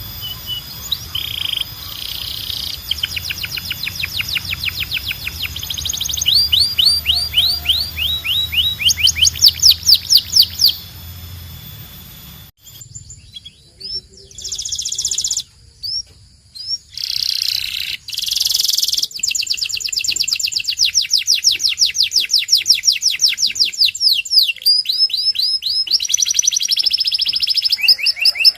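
Domestic canary singing: long trills of rapidly repeated high notes, one run after another, with a brief pause about halfway. A low hum under the first half stops at the pause.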